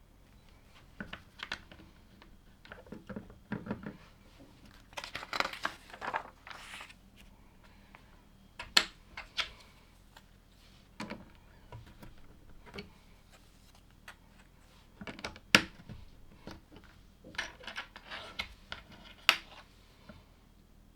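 Plastic LEGO pieces being handled and pressed together: irregular sharp clicks, with three louder snaps, between stretches of rustling as loose pieces are picked through.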